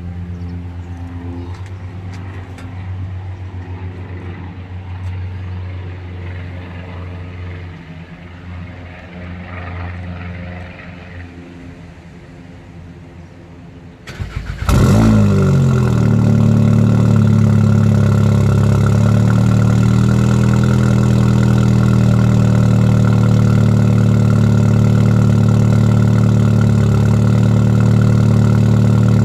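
Audi S3 8V's turbocharged 2.0-litre four-cylinder, with a stage 2 tune and an aftermarket downpipe, starting about halfway through: a sudden loud flare that drops back and settles into a steady, loud idle. Before the start there is a quieter steady hum.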